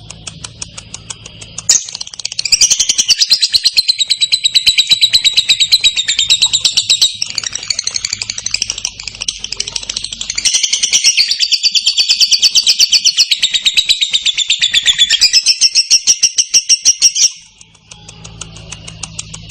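Lovebird singing a long, clear 'ngekek': a very fast, unbroken chattering trill of rapidly repeated high notes. It starts about two seconds in, runs for roughly fifteen seconds and cuts off sharply near the end. Fainter, evenly spaced chirping is heard before and after it.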